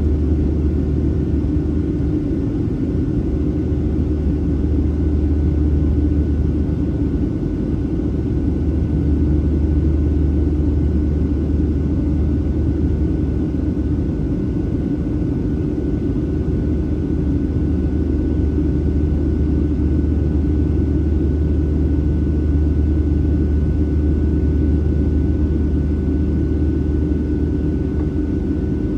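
Steady cabin noise inside a Boeing 737-700 airliner: the even drone of its jet engines and airflow, with a heavy low rumble and a faint steady whine above it.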